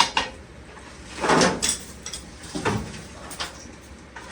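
Metal clunks and scraping from a homemade car rotisserie being locked and turned: a sharp click at the start, then two sliding, grinding sounds about a second and a half apart as the car body rotates.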